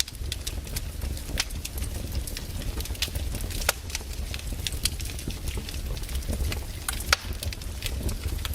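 Firewood burning: irregular sharp crackles and pops over a low steady rumble, a strong pop about 7 seconds in.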